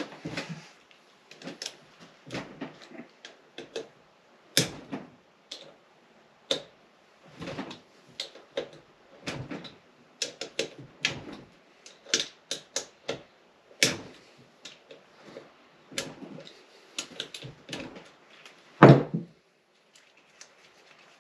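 Hand tools and bolts working on a Honda CB450 engine: irregular sharp metal clicks and clinks as bolts are taken out, with one louder knock near the end.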